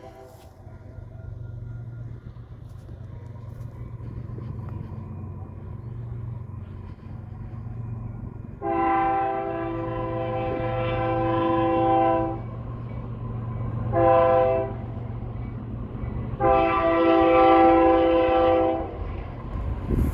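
Union Pacific diesel locomotive's multi-chime air horn sounding long, short, long over the steady low rumble of the train. Together with a blast just before, this completes the standard long-long-short-long grade-crossing signal.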